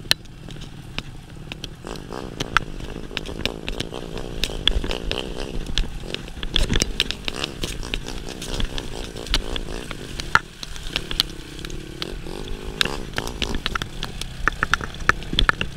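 Yamaha Serow 250's air-cooled single-cylinder four-stroke engine running under load, revs rising and falling while the bike is ridden up a rutted dirt trail. Frequent sharp knocks and rattles come from riding over the rough ground, thickest near the end.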